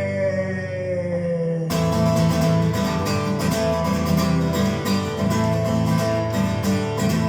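Acoustic guitar strumming steadily in rhythm, with the last sung note of a line held and slowly falling in pitch until it stops about two seconds in, leaving the guitar playing alone.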